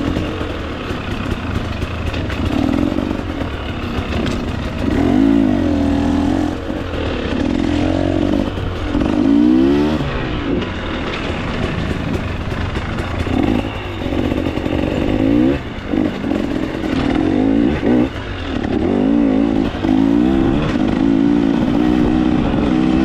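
KTM 300 XC-W two-stroke dirt bike engine revving up and down as the throttle is opened and closed, with a few brief drops off the throttle.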